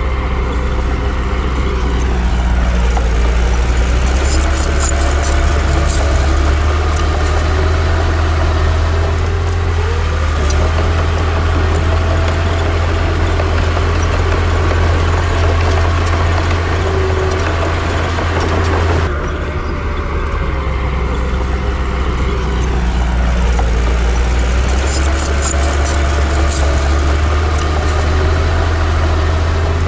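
Heavy diesel engine of a Komatsu D60 crawler bulldozer running under load, its pitch rising and falling slowly as it works, with scattered clicks over the steady drone. The sound cuts abruptly about two-thirds of the way through and carries on in the same way.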